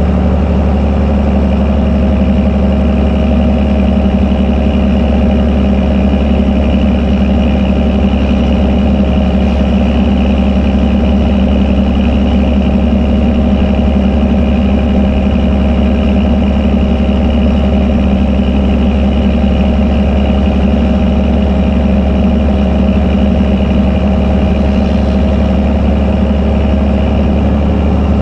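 Fendt Favorit 926 Vario tractor's six-cylinder diesel running steadily at constant revs through an open, straight-through exhaust.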